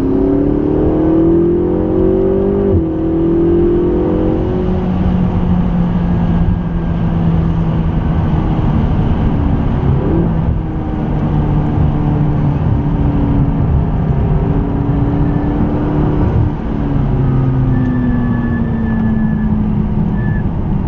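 McLaren 650S's twin-turbo V8 driven hard on track: revs climb for about three seconds, then drop at a gear change. It runs at steadier revs with brief lifts, falls away near the end and starts climbing again.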